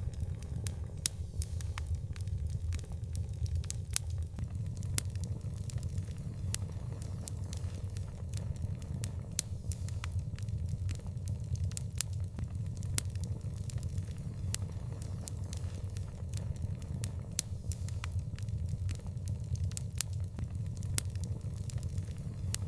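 Fire in an outdoor fireplace crackling, with frequent irregular sharp pops over a steady low rumble.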